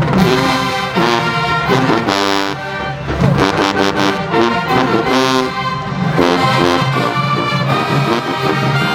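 Marching band brass section playing loud, punchy phrases of short repeated notes, with trombones and trumpets in stacked chords.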